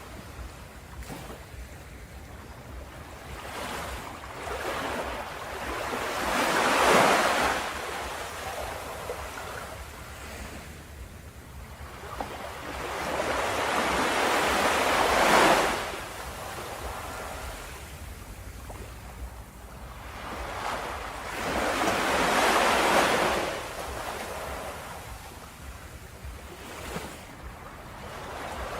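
Ocean waves washing onto a beach: three large waves build and break about every eight seconds, with gentler wash and surf hiss between them.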